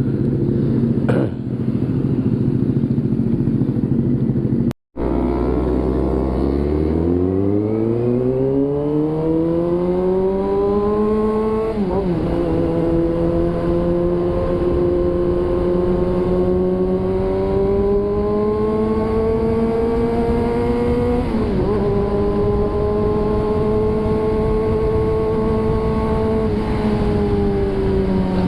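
Sport motorcycle engine heard from the rider's seat, with a brief gap about five seconds in. After the gap it pulls away, its pitch rising steadily for several seconds. It steps down at an upshift, runs steadily, shifts up again and eases off near the end.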